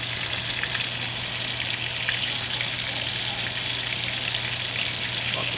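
Food frying in hot oil in a pan on the stove, a steady sizzle.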